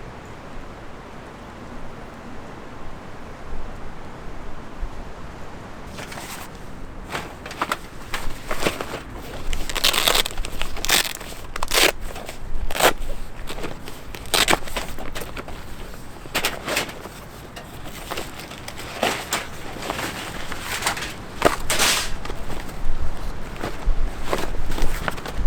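Steady outdoor background noise, then from about six seconds in a long run of irregular crunches and rustles, uneven in spacing and loudness.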